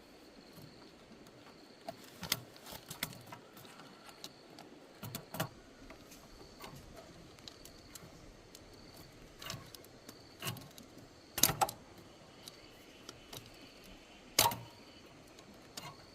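Scattered clicks and light knocks of objects being handled, with two louder knocks in the second half about three seconds apart.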